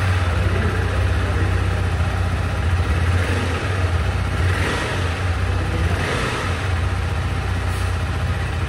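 Motorcycle engine running steadily with a deep rumble.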